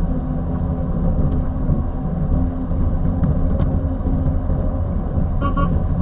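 Heavy vehicle engine running steadily at speed, a continuous low drone, with two quick horn beeps near the end.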